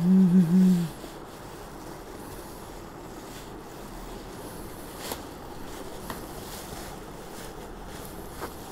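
Steady rain falling, an even hiss with a few faint taps, opening with a brief hummed voice.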